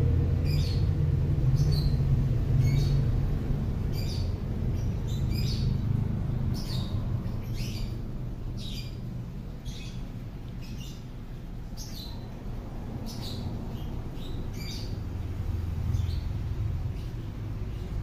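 A bird chirping repeatedly, short high calls about two a second that thin out after about twelve seconds, over a steady low rumble that is louder at the start.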